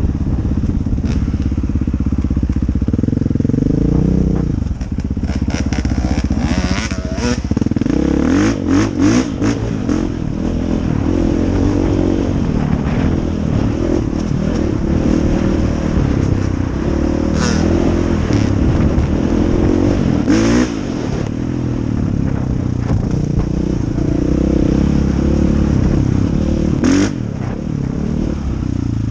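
Dirt bike engine running hard, its pitch rising and falling again and again with the throttle, with scattered clattering knocks from the bike over rough ground.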